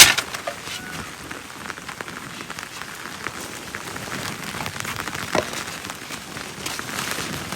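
Steady rain falling, with many separate drops ticking on nearby surfaces. A sharp knock sounds right at the start.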